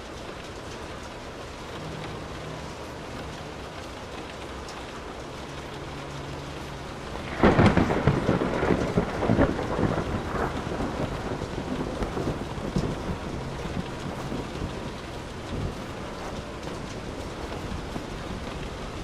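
Steady rain falling, with a sharp thunderclap about seven seconds in that rolls on as a rumble and slowly dies away.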